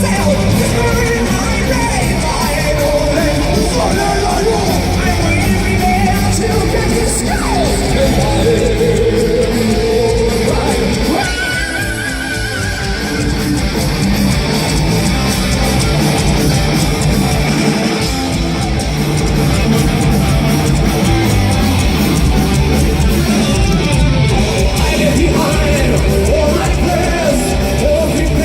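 Heavy metal band playing, a guitar-led passage with no clear lyrics.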